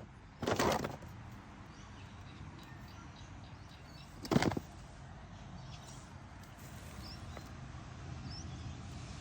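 Stone being knocked and worked apart by hand: two short sounds, one about half a second in and one about four seconds in, over a faint steady background.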